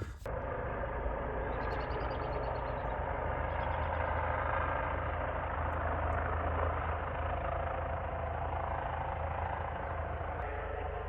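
Power-line patrol helicopter flying overhead, with a steady drone of engine and rotor.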